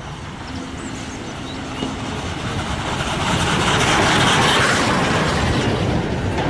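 Steam-hauled passenger train passing close by: the coaches' wheels rumble and clatter on the rails, growing louder over the first few seconds as the carriages go past.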